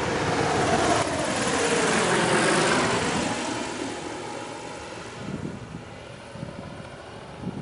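Small propeller airplane passing close by. The engine and propeller drone swells to its loudest about two to three seconds in, its pitch falling as it goes past, then fades away.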